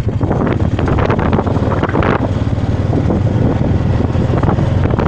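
A vehicle in motion: a steady low rumble with irregular knocks and crackles, and wind buffeting the microphone.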